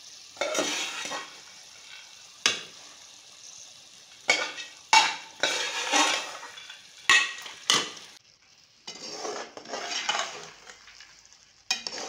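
Soaked white urad (mash) daal hitting hot ghee and masala in a metal pan: sizzling in irregular bursts, with a few sharp knocks of a metal spoon on the pan. Sharper clatter near the end as the spatula starts stirring the daal through the masala.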